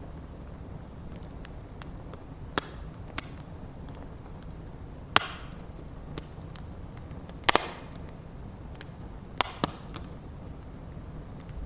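Wood bonfire of stacked logs burning, with a steady low rumble of flames and sharp crackling pops from the wood at irregular intervals. One pop comes as a quick double past the middle, and two more come close together near the end.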